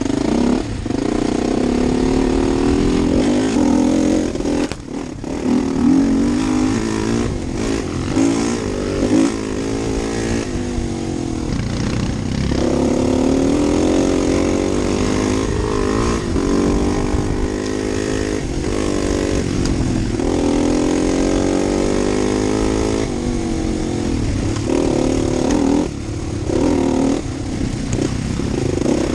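2012 Husqvarna TE250 four-stroke single-cylinder dirt bike engine under way, revving up and easing off over and over as the bike is ridden along a trail.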